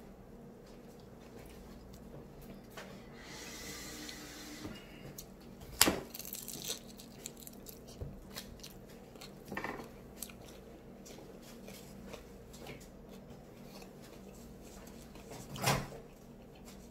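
Close-up chewing and biting while eating a fried egg roll, with a few sharp knocks; the loudest is about six seconds in, with others near ten and sixteen seconds.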